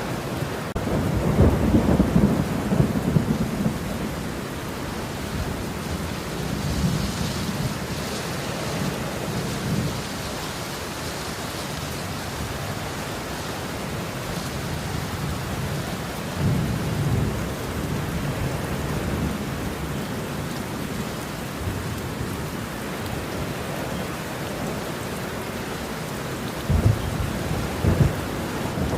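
Steady rain with rolling thunder: low rumbles swell a couple of seconds in, again about halfway through, and near the end.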